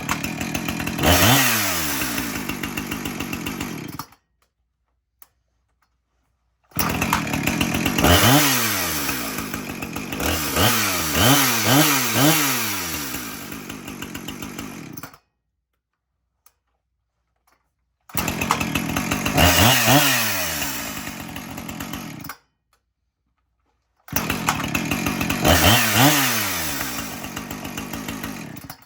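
Two-stroke chainsaw engine running in four separate stretches, each cut off abruptly with silence between. In each stretch it revs up sharply and falls back toward idle; the second, longest stretch has a quick run of several revs in a row.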